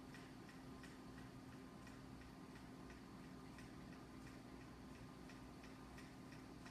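Near silence with faint, regular ticking about twice a second over a steady low hum.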